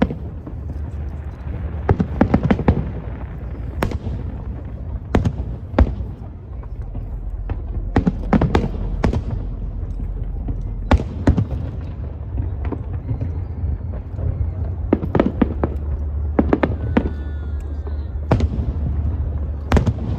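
Fireworks display: aerial shells bursting in clusters of sharp bangs every few seconds, over a steady low rumble.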